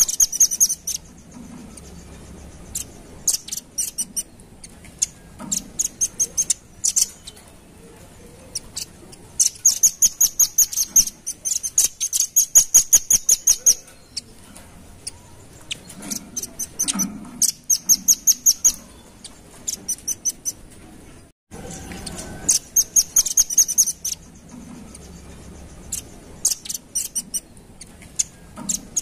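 Velvet-fronted nuthatch (red-billed rambatan) calling: bursts of rapid, sharp, high-pitched chips run into trills, repeated again and again with short pauses between them.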